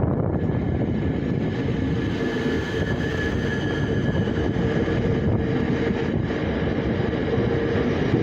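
Electric commuter train on the Melling line pulling out of the station, a steady rumble of running gear with a level electric whine coming in about two seconds in.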